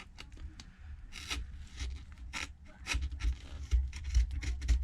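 Blade scraping old screen adhesive and bits of glass off an iPad Pro's aluminium housing in a series of short strokes, with low bumps of handling on the bench that are heavier in the second half.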